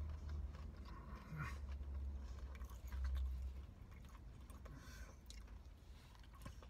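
A person chewing a bite of fried cod fish sandwich, with faint scattered mouth clicks. Under it runs a low steady hum that stops about three and a half seconds in.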